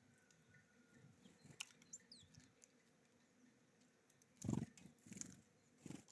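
Faint, brief chirps of small songbirds, then three muffled thumps in the last two seconds, the first the loudest.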